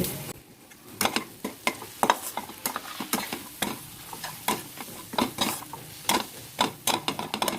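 A spatula stirring and scraping in a pan of onions and ginger-garlic paste frying in mustard oil with turmeric, cumin and salt, the masala being fried. Irregular scrapes, several a second, over a faint sizzle.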